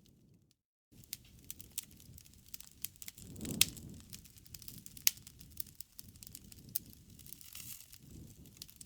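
Wood fire crackling and popping over a low rumble of flames, with sharp snaps, two of them especially loud in the middle. The sound cuts out for a moment just under a second in.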